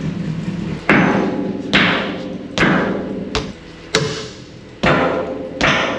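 Hammer blows, seven in all, struck a little under a second apart, each one ringing briefly, over a steady low hum.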